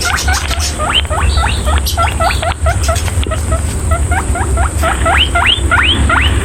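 Guinea pig wheeking: a fast run of short squeaks, each sweeping sharply upward in pitch, several a second, over a steady low hum.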